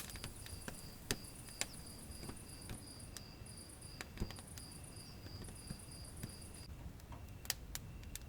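Wood fire crackling in a fireplace, with sharp pops scattered through. Behind it runs a steady, high-pitched pulsing trill that stops about two-thirds of the way through.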